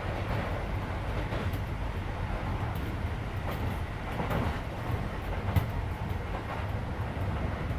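Cabin running noise of a Keisei 3400 series electric train at speed: a steady rumble of wheels on rail with scattered clicks from rail joints, one sharper knock about halfway through, and the car's air conditioning running underneath.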